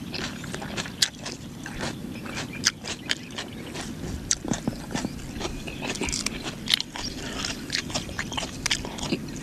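Close-up chewing of food with raw herbs and greens: irregular crisp clicks and crunches in the mouth, with leaves rustling as they are picked from the plate.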